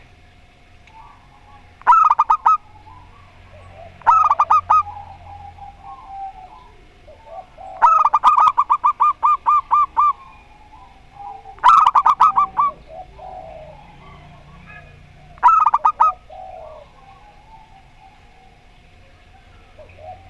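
Zebra doves (perkutut) calling: five loud bursts of rapid, stuttering cooing notes a few seconds apart, the third the longest, with softer bird chirps between them.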